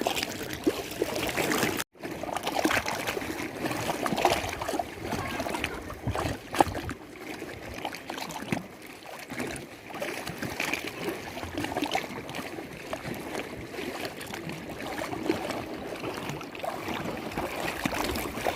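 Lake water lapping and trickling, with many small irregular splashes and gurgles. There is a brief dropout about two seconds in.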